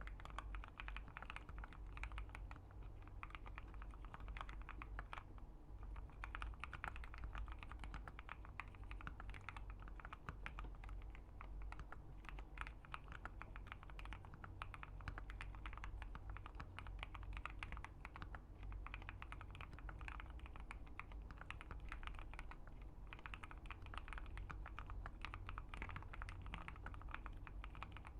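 Typing on a Keychron Q1 75% mechanical keyboard with an FR4 plate and C3 Fierce Girl switches: a continuous flurry of keystroke clacks, with brief pauses about five, eighteen and twenty-three seconds in.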